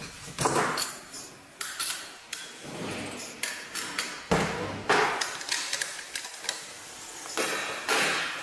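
A series of irregular metallic clanks and knocks, like hard objects or tools being set down and struck, with the loudest hits about half a second in, near the middle, and near the end.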